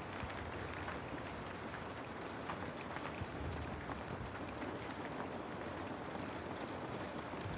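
Steady rain with many small drops ticking on a window.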